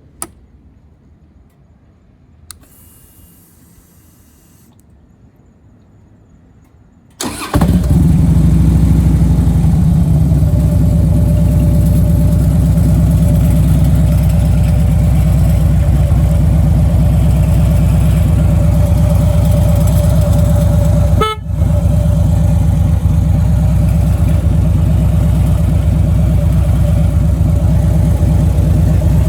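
Harley-Davidson Street Glide's Twin Cam 96 V-twin with Vance & Hines 4-inch mufflers: after several quiet seconds with two clicks and a short faint whir, the engine starts about seven seconds in and idles loudly and steadily. The sound drops out very briefly about two-thirds of the way through.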